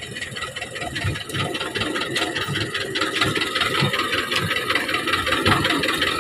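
HMT 2511 tractor's diesel engine running with a rapid, even beat, growing steadily louder.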